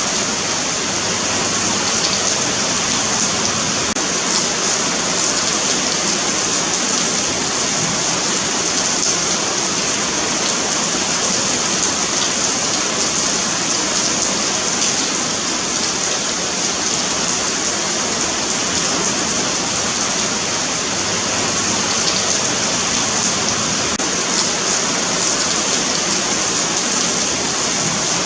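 Steady rain falling on a pavement, a continuous hiss of drops hitting the paving.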